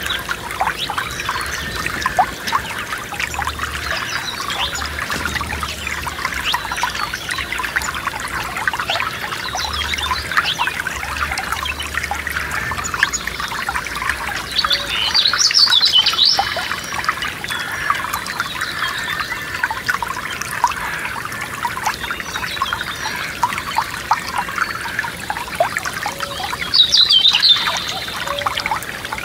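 Forest stream trickling and babbling over stones, a steady stream of small splashes. A songbird sings two short bursts, one about halfway through and one near the end.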